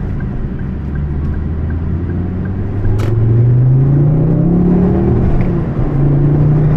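Turbocharged five-cylinder engine of a 2010 Ford Focus XR5 Turbo with aftermarket intake and exhaust, heard from inside the cabin as the car pulls away. The engine note climbs steadily for about two seconds, drops back about five seconds in, then holds steady; a single sharp click comes about three seconds in.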